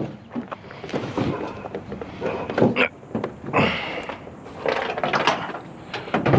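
Irregular knocks, clunks and rattles from a large microwave oven being handled, with a couple of brief scraping squeaks about halfway through.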